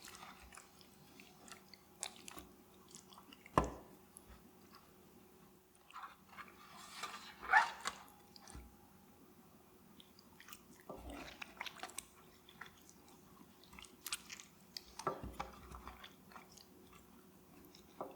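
Hands rubbing herb salt and marinade into the skin of a raw whole chicken: irregular wet squishing and slapping with sharp little clicks, loudest about a third of the way in and again near the middle.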